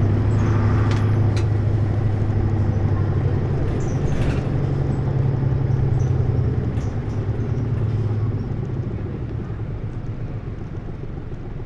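Hino U-HT2MLAA route bus running, its engine a steady drone that eases off about eight seconds in as the bus coasts and the level drops. The uploader says this bus's running sound is tending toward abnormal noise.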